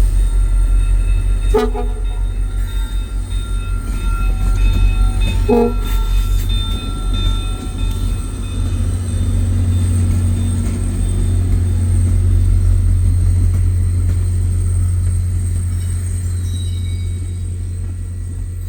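VIA Rail passenger train running past with its diesel locomotives, a loud steady deep rumble. Two short metallic clanks come about a second and a half and five and a half seconds in, and the sound eases off slightly near the end.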